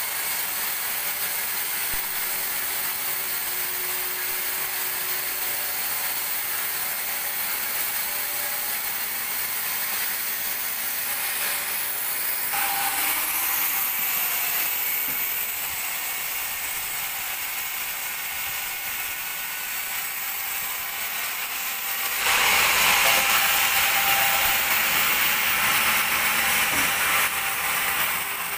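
Band sawmill running while sawing a teak log: a steady mechanical rattle and high hiss that gets louder about halfway through and again, more strongly, about three-quarters of the way in.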